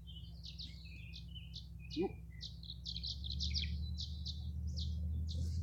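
Tree swallows twittering: a quick, continuous run of short, high chirps. A low steady rumble grows louder about three seconds in.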